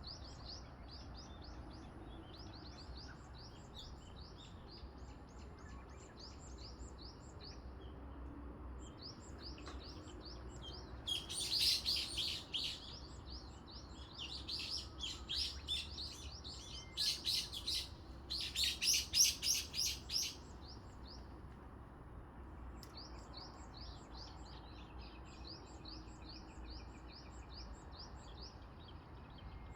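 Wild birds singing: a steady run of short, high chirps repeating through the whole stretch, with a louder, busier burst of song from a nearer bird in the middle.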